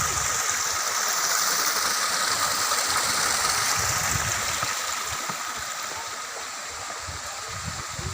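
Rushing water, an even hiss that eases off somewhat about five seconds in.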